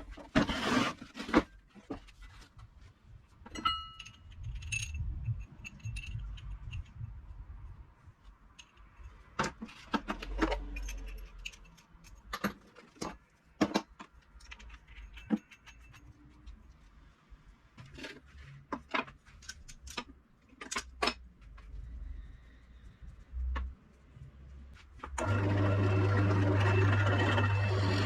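Scattered clinks and knocks of hand tools and metal parts being handled. About 25 seconds in, a power tool starts and runs steadily with a strong low hum.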